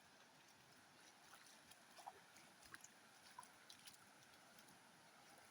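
Near silence: faint background hiss with a few scattered faint ticks and short faint chirps.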